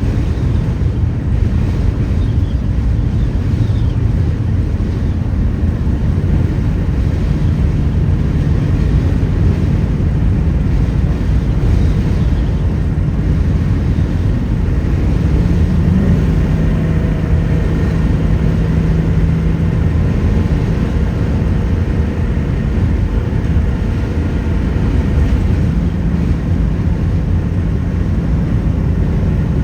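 Steady low rumble of a large RV on the move, with road and engine noise and a faint engine drone that comes and goes.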